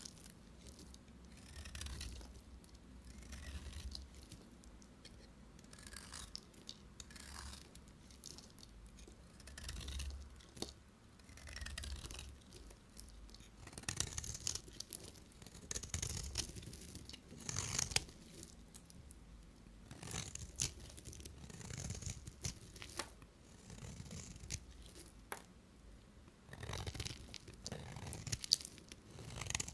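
Knife blade cutting through bars of soap, a crisp scraping, crackling cut every second or two with small sharp clicks as pieces break off.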